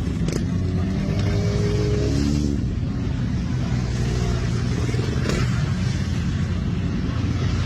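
Motorcycle engines running with a loud, steady low drone, a second engine note shifting in pitch during the first couple of seconds.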